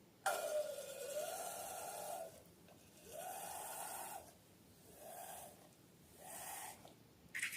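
Air squealing out of a rubber balloon's stretched neck in four bursts, each a pitched squeal with a rushing hiss. The first lasts about two seconds, its pitch dipping and then rising; the other three are shorter.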